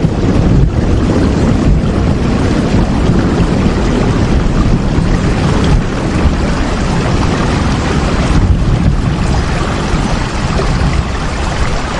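Steady heavy rain: a dense, even hiss, heaviest in the low end, with no breaks.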